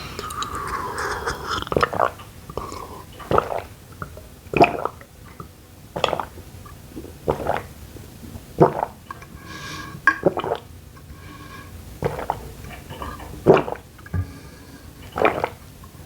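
Close-up chewing and mouth sounds of a person eating pepperoni pizza, in separate wet chews about every second or two.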